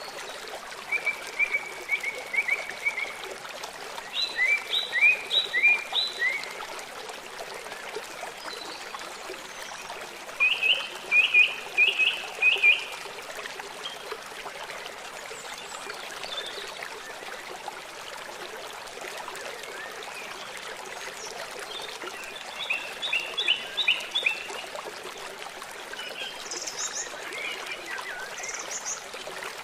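Birds singing over steadily running water: several phrases of four to six quick, repeated chirping notes, a few seconds apart, with a few higher, thinner notes near the end.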